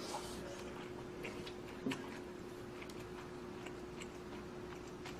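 Quiet eating sounds: soft scattered clicks and light chewing of someone eating instant budae-jjigae noodle stew, with one sharper click about two seconds in, over a faint steady hum.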